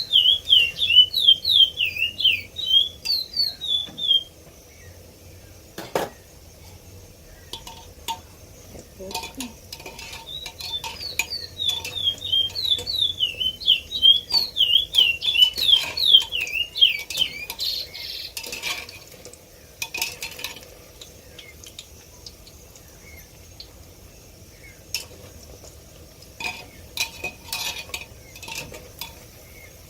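A bird chirps in two fast runs of short down-slurred notes, several a second, the loudest sound here. Between and after them a metal fork clinks and knocks against a pot.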